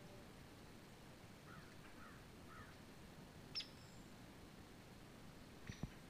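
Faint dawn birdsong: soft twittering notes from small birds, then a sharp high chip call a few seconds in and another near the end. A soft low bump sounds near the end.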